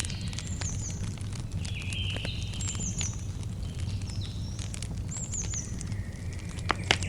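Campfire crackling with scattered pops over a steady low rumble of the burning fire, and two sharper pops near the end. Throughout, a bird repeats a short, high chirping phrase every couple of seconds.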